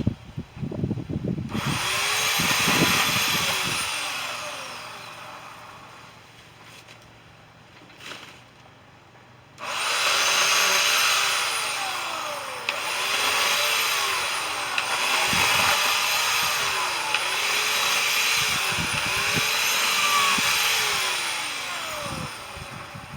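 Chainsaw revving up and easing off again and again, its pitch rising and falling every second or two as it cuts, in two runs with a lull of several seconds between them.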